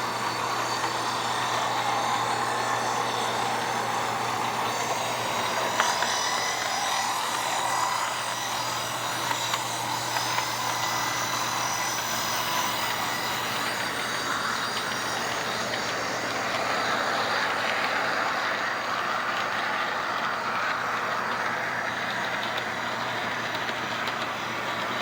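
Locomotive running steadily: a constant engine drone with a few brief clicks about six and ten seconds in.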